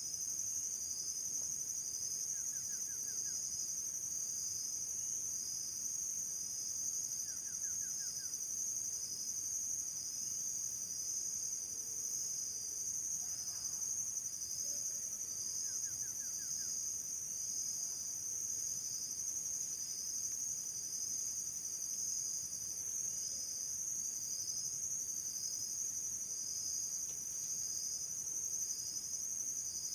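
Chorus of insects, a steady high buzzing with a second layer pulsing about once a second. A bird gives a short, quick trill three times.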